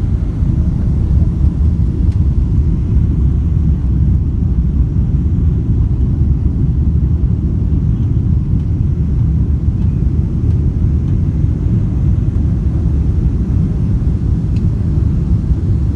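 Steady low rumble of a Boeing 777-200ER airliner in flight, heard from inside the cabin, with no change in pitch or level.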